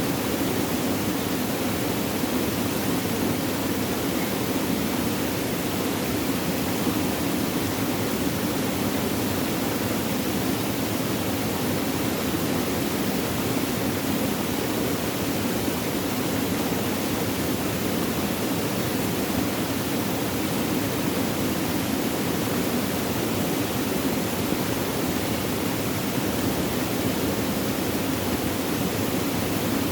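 Flowing water running steadily: an even, unbroken rush with no separate splashes or drops.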